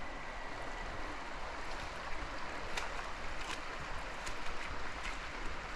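Steady rush of flowing river water, with a regular run of light footsteps on the trail from about two seconds in.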